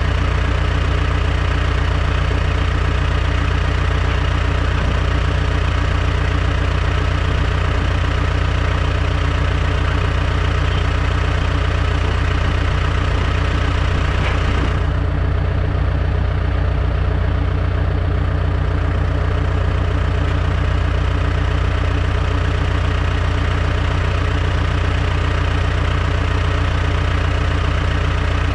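Diesel engine of a piece of heavy earthmoving equipment running steadily at an even speed: a deep, unchanging drone.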